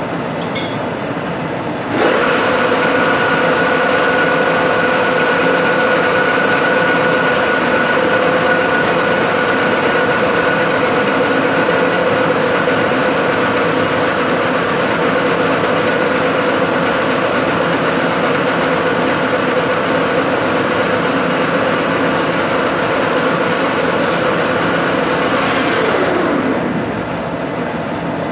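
A machine tool's electric motor spinning up about two seconds in, running with a steady whine over loud workshop noise, then winding down with a falling pitch near the end.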